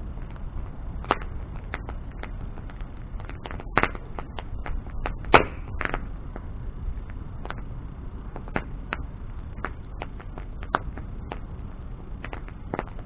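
Wood bonfire burning: irregular crackles and sharp pops over a steady low rumble, with the loudest pops about four and five and a half seconds in.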